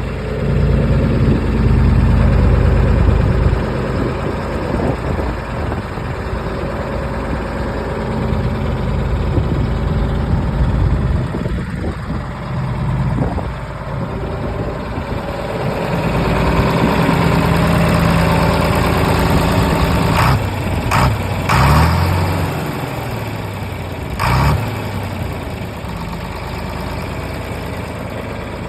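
Tractor engine running, its note shifting up and down. About two-thirds of the way through come a few sharp clacks as the engine note falls.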